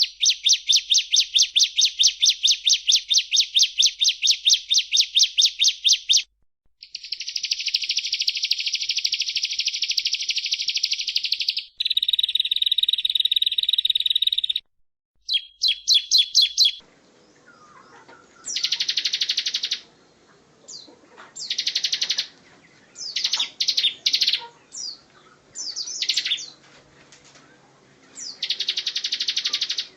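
Bar-winged prinia (ciblek) singing: first a fast run of sharp, high repeated notes, then long, rapid trills. From about halfway on, the song comes in short separate bursts over faint background hiss.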